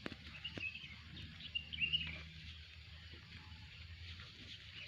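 Birds chirping in short warbling calls, once about half a second in and again around two seconds in, over a faint steady low outdoor rumble.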